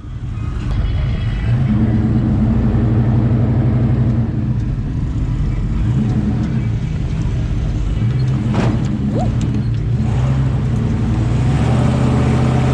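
Dodge Ram 1500 pickup's engine running steadily as the truck drives through a small mud hole, with a brief click about two-thirds of the way through.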